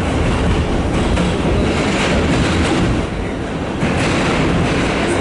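Riding inside a New York City subway car as the train runs along the track: a steady rumble of wheels on rail with faint clicking over the rail joints, easing briefly about three seconds in before picking back up.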